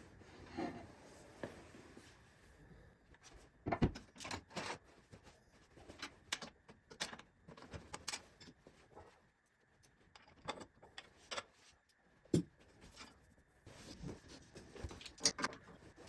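Scattered light knocks, clicks and rattles of objects being handled, with sharper single knocks about four seconds in, about twelve seconds in and near the end.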